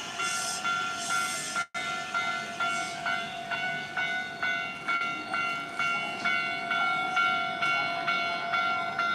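Japanese railroad crossing warning bell ringing: an electronic clanging repeated about three times a second, each strike a ringing tone that dies away. The sound cuts out for a split second about two seconds in.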